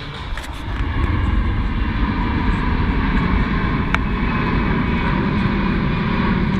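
Aircraft flying past at an airshow: a loud, rumbling engine noise swells up about a second in and stays steady.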